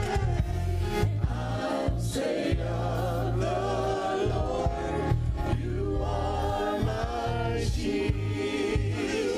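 Gospel music: a choir singing over band accompaniment with a heavy bass line and cymbal strokes.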